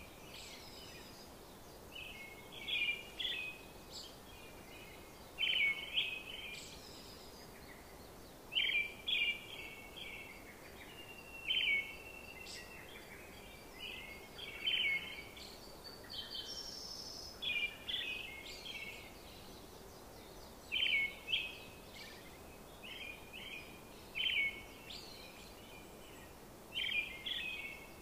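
Birds chirping: short clusters of chirps come roughly every three seconds over a faint steady hiss.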